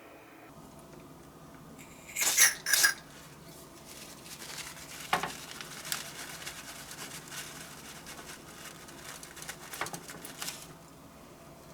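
Small metal tools clattering twice on a workbench, then light scraping and handling noise with scattered clicks that stops near the end.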